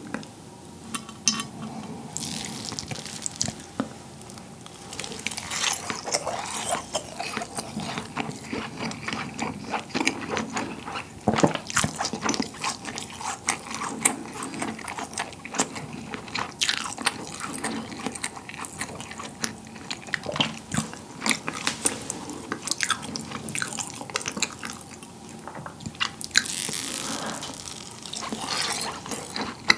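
Close-miked mouth sounds of someone chewing syrup-soaked rasgulla, soft cheese balls in rose-water syrup: wet squishing with many short clicks.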